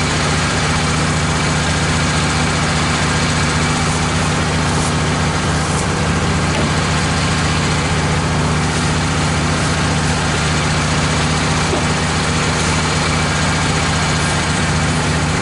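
Wood-Mizer LT15 portable band sawmill running steadily, its band blade cutting through a red oak log.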